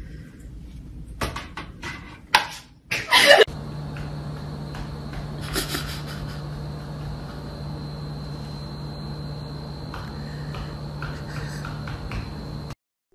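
A few sharp clicks and knocks as a cat paws at a wall light switch, the loudest about three seconds in. Then a steady low hum with a faint high whine, with only small scattered noises over it.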